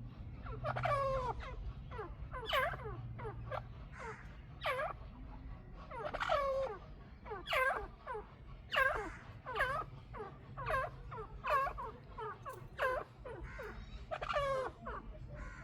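A pair of chukar partridges calling: a running series of short, harsh notes, each falling in pitch, roughly one a second.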